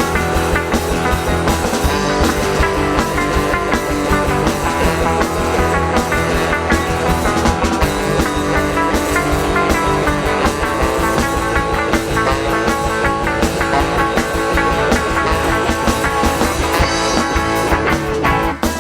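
A live rock band playing an instrumental passage with electric guitar and a drum kit keeping a steady beat.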